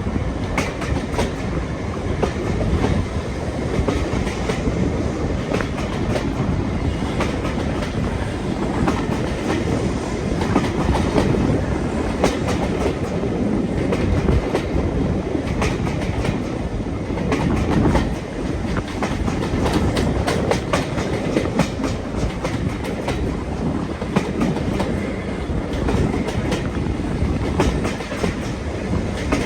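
Train running along the line: a steady rumble with the wheels clicking over the rail joints.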